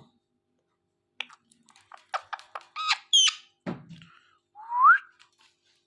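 Ringneck parrot making short high squawks and clicking chirps, then a clear rising whistle about five seconds in.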